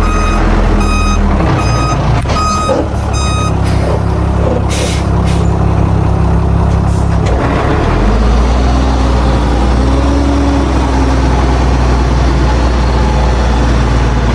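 Backup alarm on a heavy diesel construction vehicle, beeping about twice a second over the running engine and stopping about three and a half seconds in. A short air hiss follows around five seconds in. The diesel engine's note then drops lower and heavier about eight seconds in.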